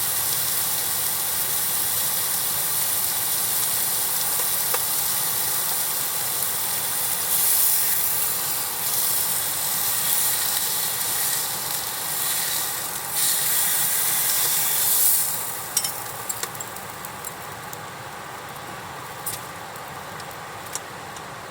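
Sizzling on a hot iron griddle, swelling for several seconds and then dropping away sharply about sixteen seconds in, leaving a quieter hiss with a few sharp crackles.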